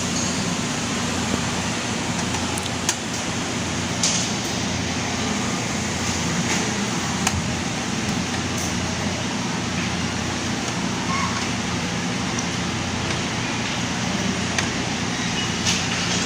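Steady background hum and hiss with a handful of light clicks and taps scattered through, typical of computer parts being handled during a disassembly.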